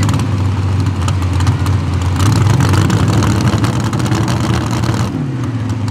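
Mini rod pulling tractor's engine running loud and steady, then its pitch falls about five seconds in as it comes off the throttle.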